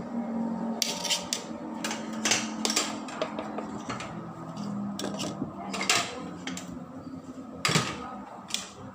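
Metal spoon clinking and scraping against a cooking pot while rice is layered, in irregular sharp knocks, several close together.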